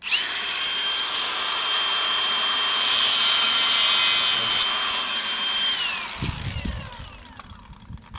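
Handheld electric power tool starting abruptly and running with a steady high whine, turning harsher for a second or two in the middle as it works, then spinning down with a falling whine after about six seconds.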